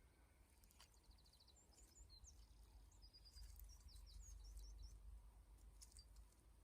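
Near silence with faint birdsong: quick high chirps, a short trill and a few brief sweeping notes, mostly in the middle. A steady low rumble and a few faint clicks sit underneath.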